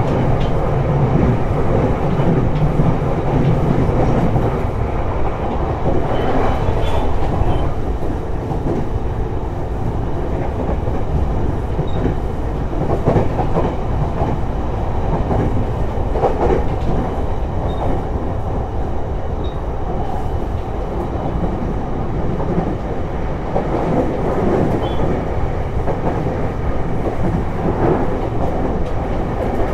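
Running noise of an Abukuma Express AB900-series electric train, heard from inside the car: a steady rumble of wheels on rail with occasional faint clicks of rail joints. A low hum in the first few seconds fades out.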